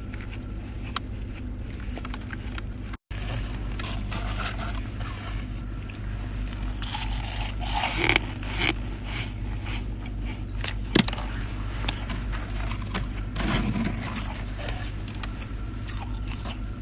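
Frost ice being scraped and crunched inside a chest freezer, in irregular rough strokes with a few sharp cracks, over a steady low hum. The sound cuts out briefly a few seconds in.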